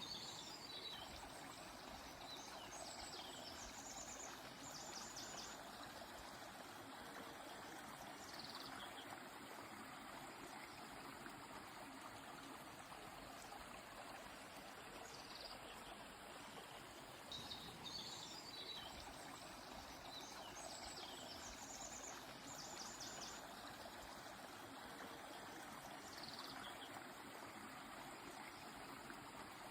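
Faint, steady rush of a flowing stream, with birds singing short high phrases now and then: a cluster in the first few seconds and another about two thirds of the way through.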